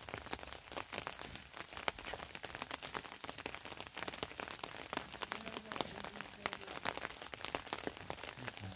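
Light rain pattering, a dense, steady run of small ticks.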